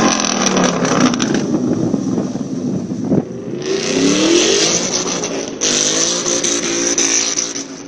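Exhaust of a BMW 335i E92's turbocharged straight-six, its pitch falling off throttle, then a single sharp crack about three seconds in. The engine then revs up twice with rising pitch, about four seconds in and again near six seconds.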